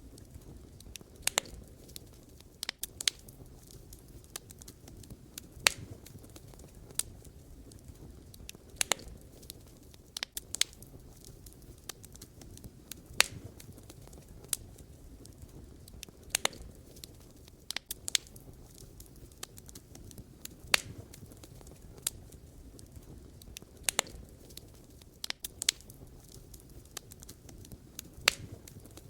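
Wood fire crackling: sharp, irregular pops and snaps of burning firewood over a low, steady rumble of the flames.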